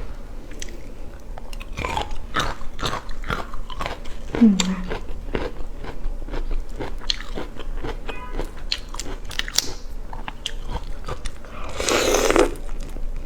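Close-up eating sounds of someone biting into and chewing seafood: irregular crunches and snaps throughout, with a short falling vocal sound about four seconds in and a louder rushing burst near the end.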